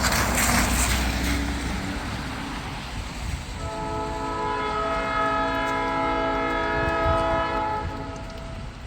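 Wind and rumble, then about three and a half seconds in a diesel locomotive's multi-chime air horn sounds one long, steady chord. The chord lasts about five seconds and cuts off near the end.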